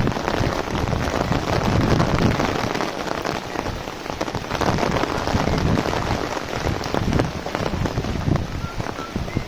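Heavy rain drumming on an umbrella overhead: a dense, steady patter of drops.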